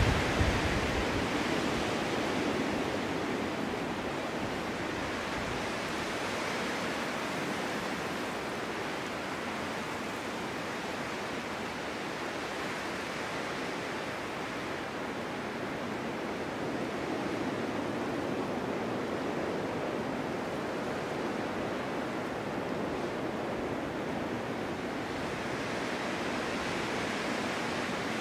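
Snowstorm wind blowing steadily, swelling and easing in gusts. The strongest gust comes right at the start, and it builds again past the middle.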